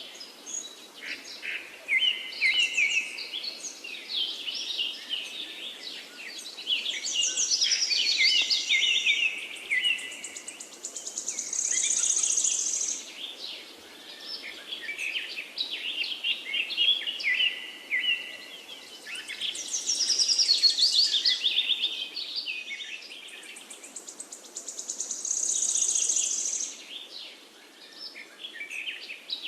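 Several forest birds singing at once: overlapping high songs, chirps and fast trills that swell and fade every few seconds, over a faint steady hiss.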